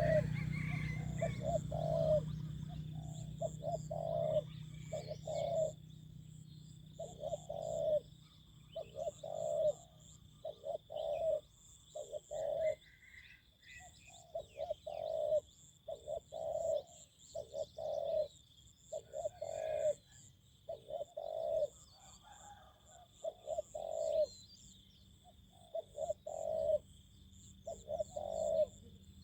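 Spotted dove cooing over and over, short phrases of a few low coos every second or two. A faint high pulsing chirp and a steady high insect whine run underneath.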